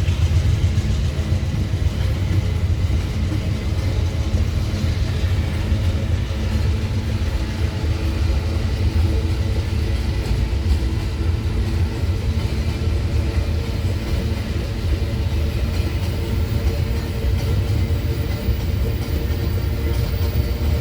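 Empty iron-ore freight train rolling past: a steady, continuous rumble of steel wheels on the rails.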